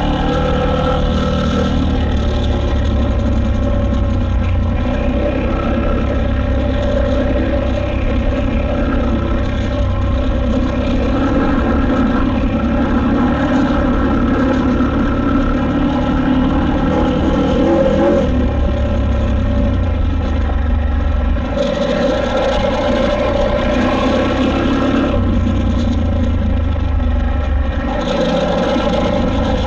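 KTM 890 Adventure R's parallel-twin engine running under way, its pitch and loudness rising and easing with the throttle. The engine note brightens at about 22 seconds, drops back at about 25 seconds and brightens again at about 28 seconds.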